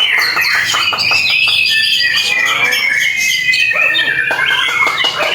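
White-rumped shama (murai batu) singing loudly: rapid runs of clicking, chattering notes mixed with clear whistles, and one long whistle that glides slowly downward in the middle.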